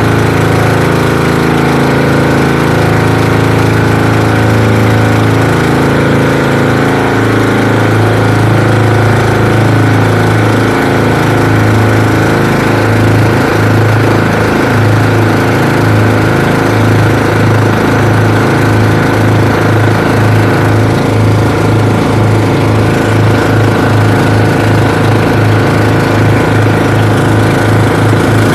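Twin engines of a bangka outrigger boat running steadily under way, loud and continuous, the two engine notes beating against each other in a slowly shifting throb.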